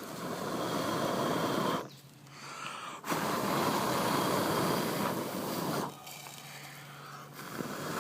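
A person blowing hard in three long breaths, each lasting about two seconds and cutting off sharply, with short pauses between them: the kind of blowing used to fan a campfire's embers so the pot on it heats up.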